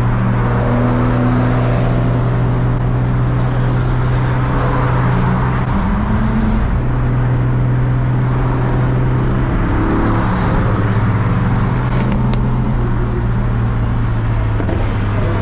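Big-turbo Nissan 350Z's VQ35HR V6 running at a steady cruise, holding an even low drone with small shifts in pitch about six and ten seconds in.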